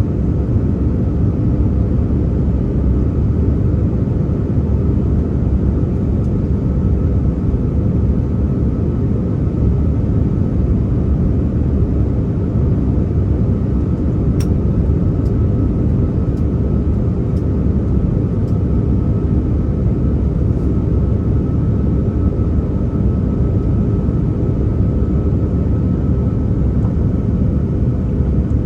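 Steady, loud low rumble of a Cathay Pacific Airbus A330-300 cabin in flight: engine and airflow noise, with a faint steady whine above it and a few faint ticks in the middle.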